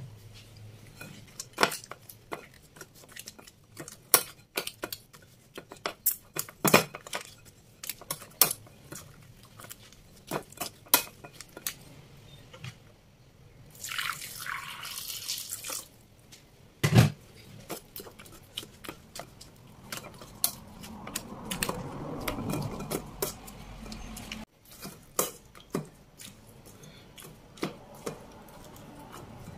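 Boiled tamarind pods dripping and clicking in a stainless steel colander. About fourteen seconds in, liquid is poured from a pot over them for about two seconds. Later a metal spoon mashes the tamarind in the liquid against the colander.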